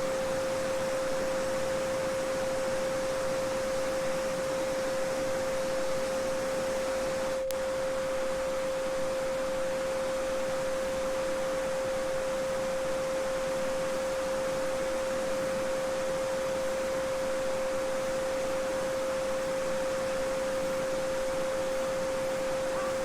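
A steady 528 Hz sine tone (the Solfeggio frequency) held without change over the even rush of a babbling brook. A faint click about seven and a half seconds in.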